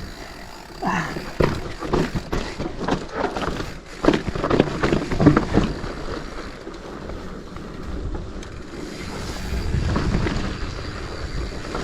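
Wind on the microphone while riding a mountain bike over a rough trail, with a run of clicks and rattles from the bike over stones in the first half and a low wind rumble swelling near the end.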